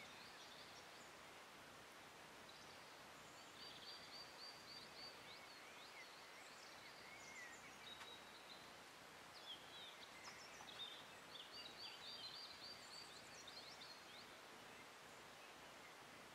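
Faint birdsong, short chirps and quick trills from small birds, scattered over a steady low hiss of outdoor background noise.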